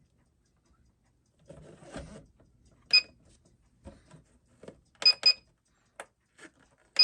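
Sharp clicks with a brief ringing tone, irregularly spaced: one about three seconds in, a quick pair about five seconds in, and another at the end, with fainter ticks and a soft rustle of handling between them.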